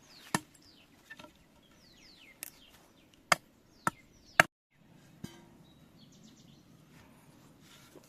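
Sharp chopping strikes of a hoe digging into earth and roots: about five uneven blows, three of them close together near the middle, the loudest about halfway through. Birds chirp faintly between the strikes.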